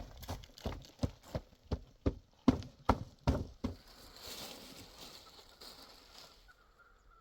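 Steady walking steps, about three sharp footfalls a second, stopping a little under four seconds in, followed by a brief soft hiss.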